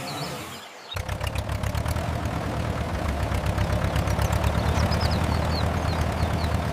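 A vehicle engine comes in suddenly about a second in and runs steadily with a rapid, even putter and a low hum, while short high chirps of birds sound over it.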